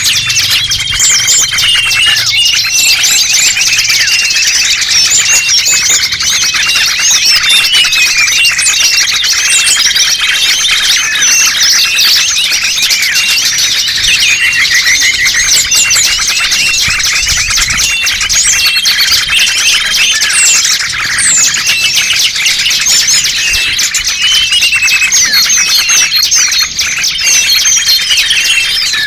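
Dense chorus of many small songbirds chirping, trilling and whistling over one another without a break: a bird-lure (pikat) recording for calling small birds.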